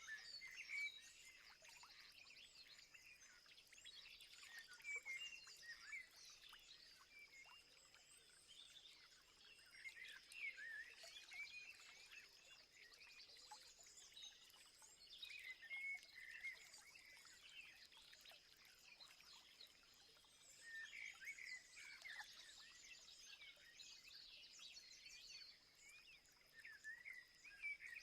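Faint chorus of small birds chirping and twittering in overlapping clusters every few seconds, over a steady high-pitched thin tone.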